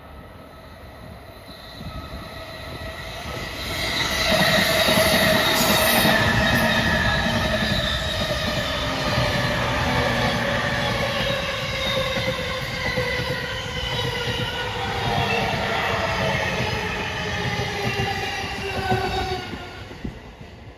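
JR East electric commuter train passing close, its wheels rumbling on the rails under a traction-motor whine of several tones that fall slowly in pitch. It builds about two seconds in, is loudest around four to six seconds in, and fades near the end.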